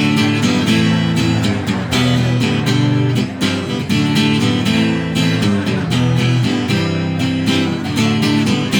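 Acoustic guitar strumming chords in a steady, lively rhythm, with no singing.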